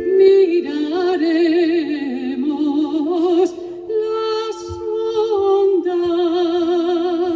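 Female voice singing a medieval Galician-Portuguese cantiga de amigo, a wavering melodic line with vibrato, over steady held accompanying notes.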